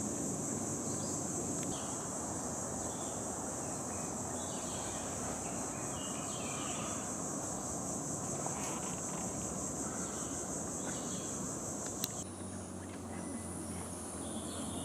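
Rainforest insects buzzing in a steady high-pitched chorus, with a few short bird chirps over a low steady rumble. About 12 seconds in, the drone changes abruptly to a thinner, higher buzz.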